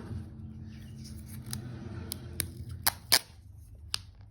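Handling noise from unboxing: a scattered run of short, sharp clicks and taps, the loudest a little after three seconds in.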